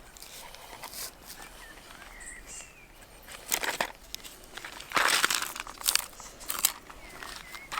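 Irregular crinkling and crunching of dry material being handled, with a few sharper bursts in the second half, and faint chirps of birds in the background.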